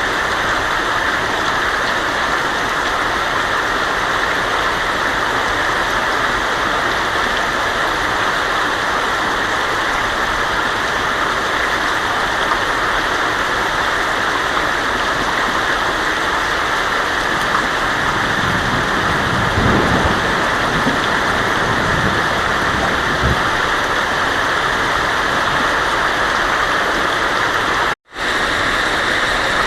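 Heavy rain falling steadily on a tin roof, with a low rumble of thunder about two thirds of the way through. A split-second gap of silence near the end.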